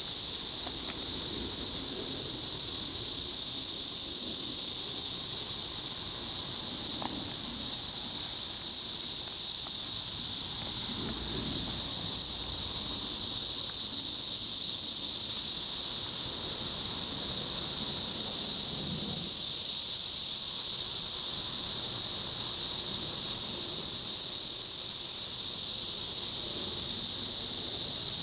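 A chorus of 17-year periodical cicadas giving a steady, high-pitched drone that holds at one level.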